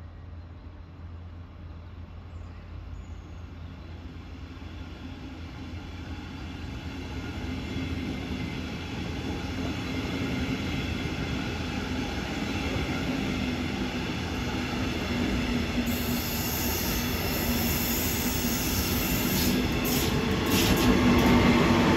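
A regional train pulling out of the station, growing steadily louder as it gathers speed and passes. Its wheels and running gear rumble, with a high hiss and a few sharp clacks in the last few seconds.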